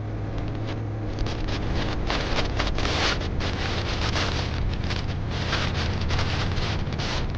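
Motorcycle engine running steadily at cruising speed with a low drone. From about a second in, wind buffets the microphone in irregular gusts.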